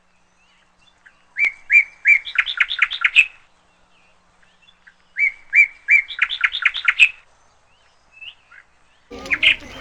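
A bird singing two similar phrases, each a few steady whistled notes that run into a quick series of rising notes. A busier mix of calls starts near the end.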